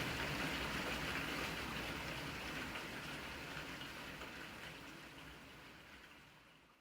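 Steady rain falling, fading out gradually to nothing by the end.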